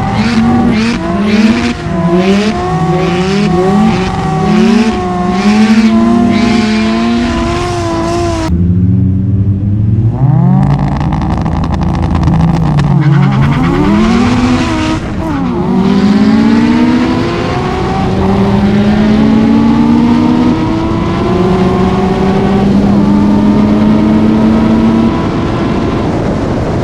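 Mazda FD RX7 rotary engine with a single-turbo conversion, heard from inside the cabin: held at high, wavering revs for the burnout for about eight seconds, then after a short lull it revs up and launches, climbing hard through several gears with a rising pitch in each, before easing off near the end.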